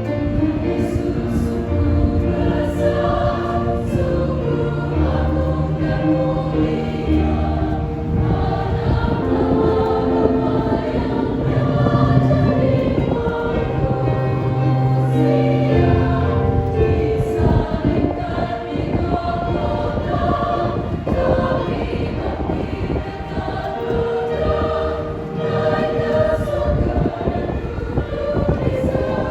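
Church choir singing a hymn in sustained chords.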